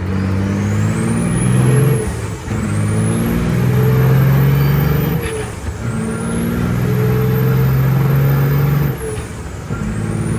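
Straight-piped Caterpillar 3406E diesel semi truck under hard load, its high whistle climbing in pitch and then dropping sharply three times, about two, five and nine seconds in, at each gear change.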